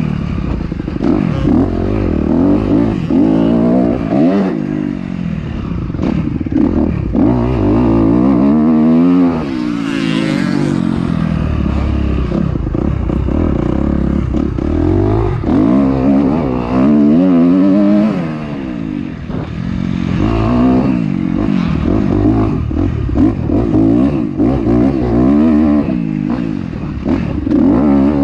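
Dirt bike engine being ridden hard, its pitch repeatedly climbing under throttle and dropping back as gears change or the throttle is rolled off, with occasional knocks and clatter.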